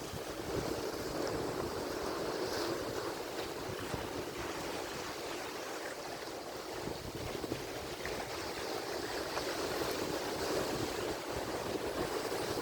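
Ocean surf: waves breaking and washing in a continuous rushing wash that swells and eases a little over the seconds.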